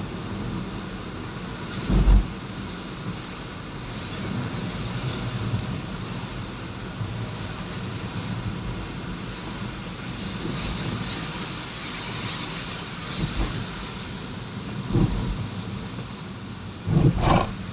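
Steady vehicle and road noise with wind buffeting the microphone. A few dull low thumps come about two seconds in, around fifteen seconds in, and just before the end.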